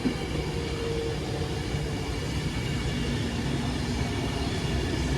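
Avanti West Coast Class 390 Pendolino electric train moving through the station: a steady rumble of wheels and running gear, with faint held tones.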